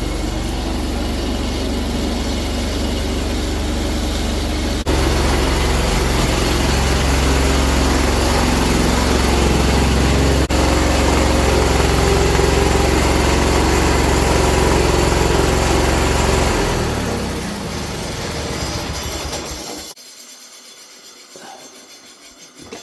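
John Deere 317 garden tractor's twin-cylinder engine running steadily, sounding like it's running on one cylinder: a misfiring cylinder. It eases off about 17 seconds in and winds down to a stop about 20 seconds in, leaving a few small knocks.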